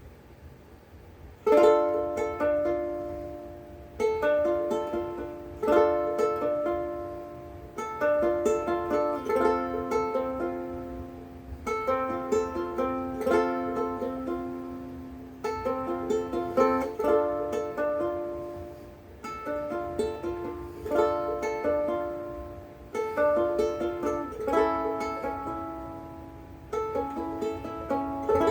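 Big Island Poni-C ukulele with Worth Brown strings, fingerpicked in a loose, improvised noodle of single notes and chords. The playing begins about a second and a half in.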